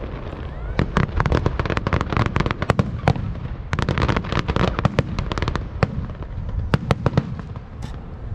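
Aerial fireworks bursting overhead in a rapid, irregular barrage of sharp cracks and bangs over a low rumble, thinning to a few scattered cracks near the end.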